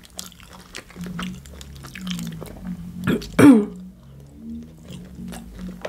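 Close-miked mouth sounds of someone eating shawarma: chewing with many small wet clicks and smacks. About three seconds in comes one short, loud throat sound whose pitch falls, like a cough or throat clearing.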